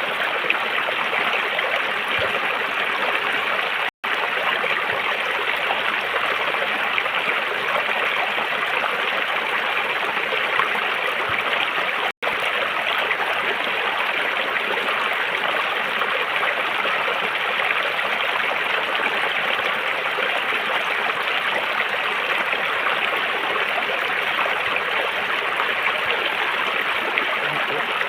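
River water flowing in a steady, even rush. The sound cuts out for an instant twice, about 4 and 12 seconds in.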